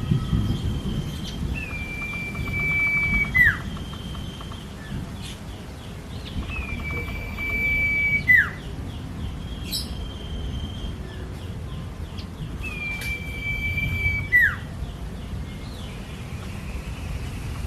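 Cipoh (common iora) singing: three times, a long level whistle ends in a sharp downward slur. Quick faint chattering notes come in between, over a low background rumble.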